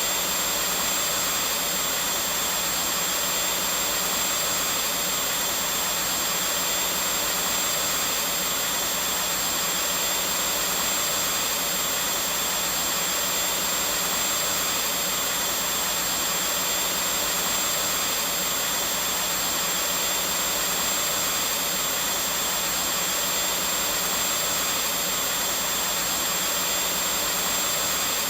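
Vacuum cleaner running steadily: an even, unbroken whoosh of motor and airflow with a faint high whine.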